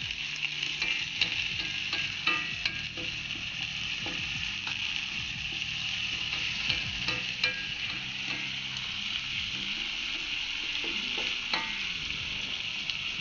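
Moringa leaves, onions and dried red chillies sizzling in oil in a wide pan, stirred with a wooden spatula that scrapes and taps the pan now and then.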